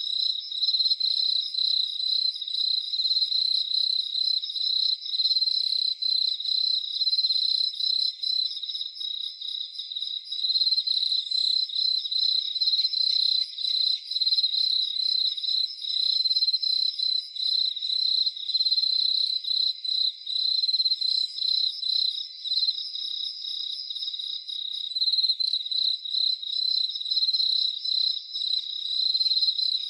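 A chorus of crickets chirping: a steady, high-pitched trill of rapid pulses.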